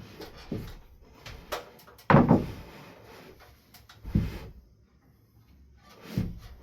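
A shelf section knocking and thudding as it is handled up a ladder and set onto its wall support arms, with several separate thumps; the loudest comes about two seconds in, and others near four and six seconds.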